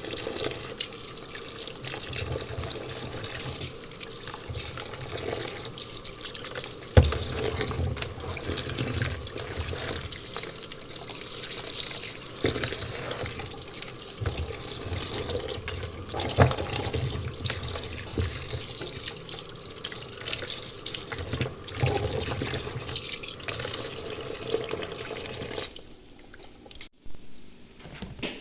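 Water running from a tap into a sink, with a few knocks and clatters in the sink; the water stops near the end.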